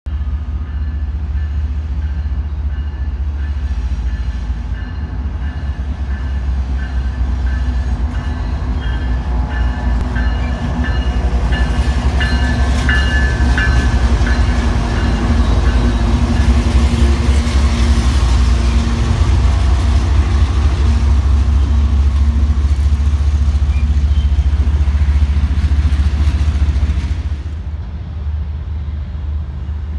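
Diesel locomotive passing close by with a continuous deep rumble. It grows louder through the middle as the locomotive goes past, then drops off sharply near the end.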